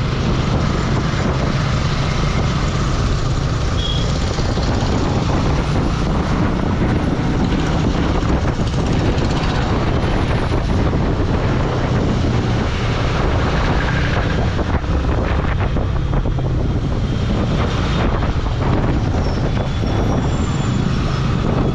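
Motorcycle engine running steadily while riding at an even speed, with wind rushing over the microphone.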